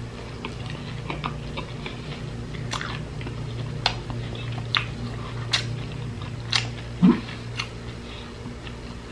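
Close-miked chewing of banana cue, fried saba banana in caramelized sugar with condensed milk: sticky, wet mouth clicks and smacks coming irregularly about once a second, over a steady low hum.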